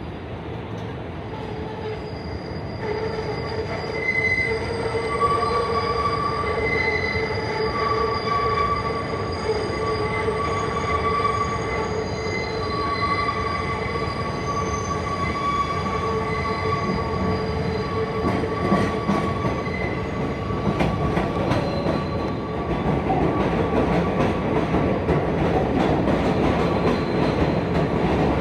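New York subway 7 train, R188 cars, pulling into the station with its wheels squealing in several steady high tones that swell and fade over the rumble of wheels on rail. The rail rumble grows louder about three quarters of the way through.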